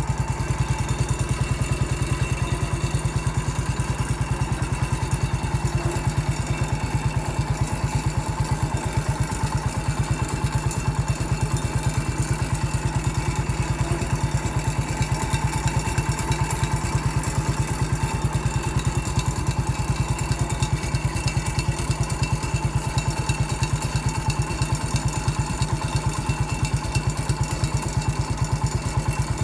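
Massey Ferguson MF 14 garden tractor's engine running at a steady speed while the tractor drives along with its front plow blade, a rapid, even beat that does not change.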